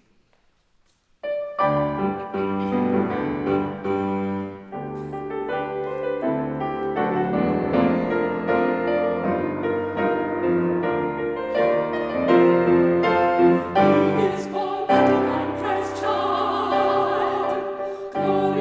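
A piano starts a lively carol introduction about a second in. In the last few seconds, classically trained women's voices, a soprano and a mezzo-soprano, come in singing with operatic vibrato.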